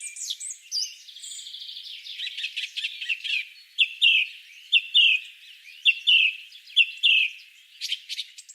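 Songbirds chirping and calling. From about halfway through, one bird repeats a loud call of two falling notes roughly once a second.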